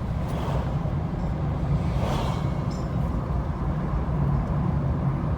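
Steady low rumble of a car driving in town traffic, engine and road noise heard from inside the cabin.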